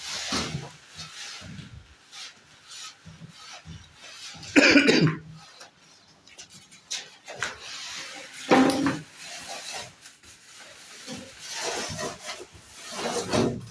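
Rubbing and scraping of packaging being handled and pulled off a new Whirlpool refrigerator, in irregular strokes with louder scrapes about four and a half and eight and a half seconds in.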